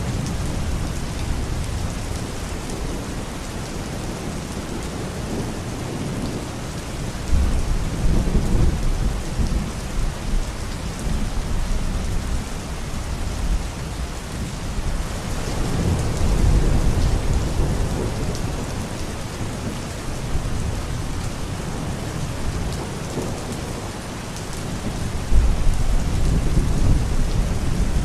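Steady rain with rolls of thunder: deep rumbles swell up about a quarter of the way in, again near the middle, and once more near the end, over the even hiss of the rain.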